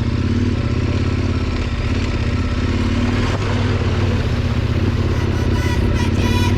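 Heavy motorcycle engine running steadily at low revs, with an even, pulsing exhaust beat.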